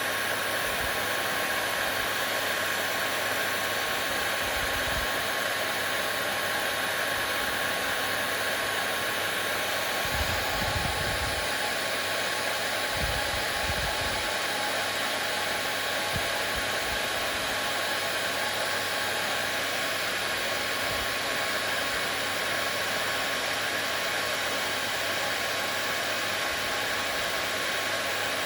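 Hair dryer running steadily: an even rushing blow of air with a faint steady whine from the motor. A few brief low bumps come through about ten and thirteen seconds in.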